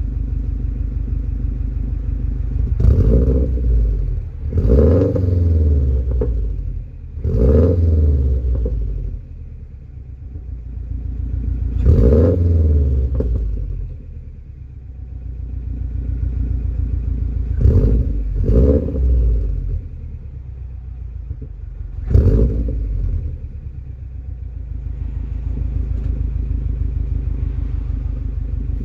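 2005 Subaru Legacy GT's turbocharged 2.5-litre flat-four engine, breathing through a Stromung 89 mm quad-tip cat-back exhaust, idling and revved in about seven quick throttle blips. Each rev rises and falls back to the idle, two of them close together in the middle.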